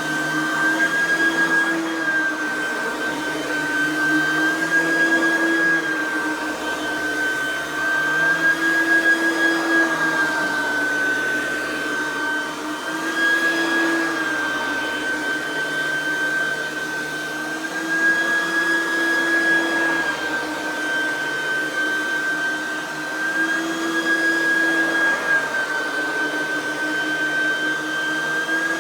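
Oreck XL 9100c lightweight upright vacuum running, its small 3.2 amp direct-air motor giving a steady high whine whose pitch shifts slightly up and down every few seconds.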